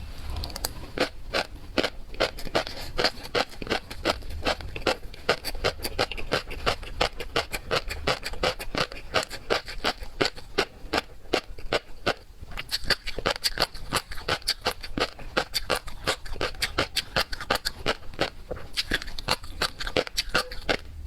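Close-miked eating sounds of a person chewing seafood: a dense, irregular run of sharp clicks and crackles, several a second.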